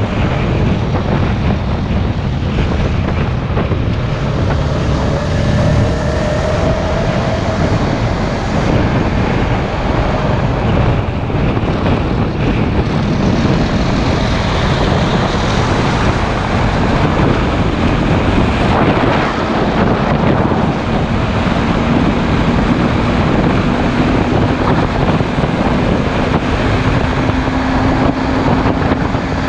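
Heavy wind rushing over the microphone of a camera on a moving motorcycle, with the motorcycle's engine running underneath. About two-thirds of the way in, a faint engine note comes through and rises slowly in pitch.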